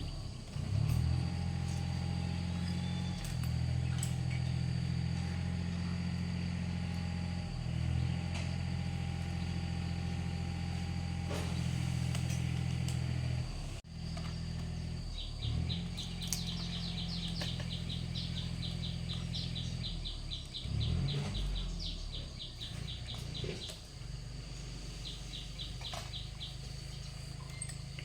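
A small engine running steadily with a low hum, briefly dropping off about halfway through before carrying on. In the second half a bird chirps in quick, rapid runs.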